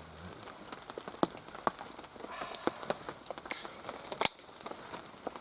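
Irregular raindrops and drips tapping on a surface, with a brief hiss about three and a half seconds in and a sharp click shortly after.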